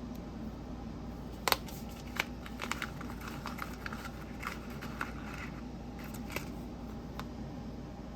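Small, scattered clicks, taps and light scraping of hand work on a small fidget with cleaning tools, the sharpest tap about a second and a half in, over a steady low hum.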